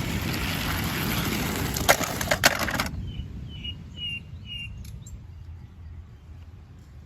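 A rustling noise with a few sharp clicks that cuts off suddenly about three seconds in, followed by a few faint, short, high chirps, like small birds calling, about half a second apart.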